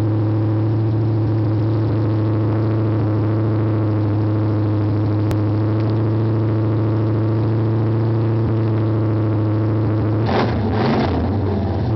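A Chevrolet Monte Carlo's 355 small-block V8 idling steadily, heard from inside the cabin; near the end it is briefly revved a couple of times.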